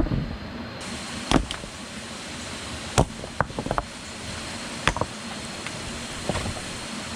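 Wood being struck by hand tools: about a dozen sharp, irregular knocks, some in quick clusters of three or four, over a steady hiss.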